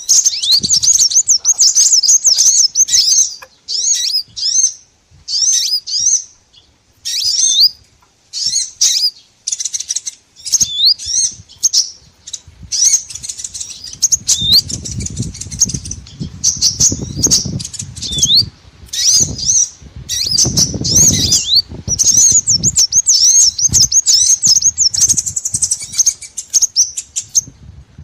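Small songbirds chirping and twittering in rapid, high-pitched bursts separated by short gaps. A low rumble runs beneath the chirping in the middle stretch.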